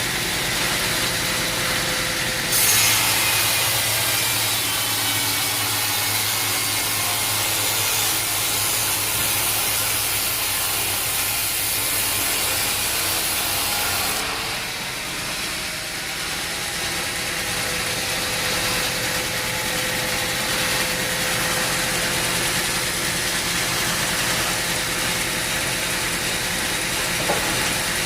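Sawmill blade cutting through a log over the steady running of the mill's engine: the cut starts with a sharp rise in hiss about two and a half seconds in and ends around halfway, leaving the machinery running on.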